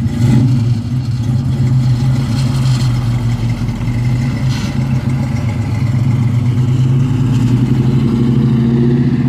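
Chevrolet El Camino's engine rumbling steadily as it pulls away easy, without a burnout, the pitch rising slightly near the end.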